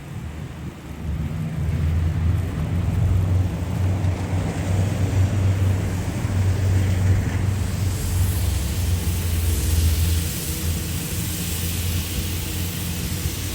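A motor vehicle passing close on the street, its engine a low rumble, with tyre hiss building in the second half as it goes by.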